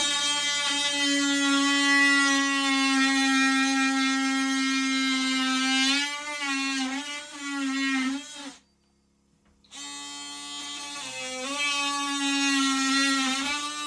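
Handheld electric power tool motor running at a steady high whine, its pitch dipping and wobbling as it takes load. It stops for about a second partway through, then starts again and bogs down briefly once more.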